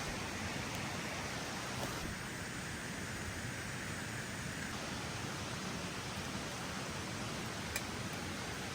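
Steady rain falling in a forest, an even hiss, with one small click near the end.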